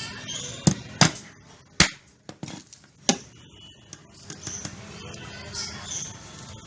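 A few sharp knocks and clinks, as of hard objects being handled or struck, four of them in the first three seconds or so.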